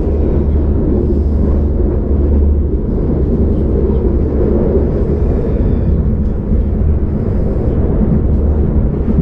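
Passenger train running along the track, heard from inside the carriage: a loud, steady low rumble of the wheels and coach.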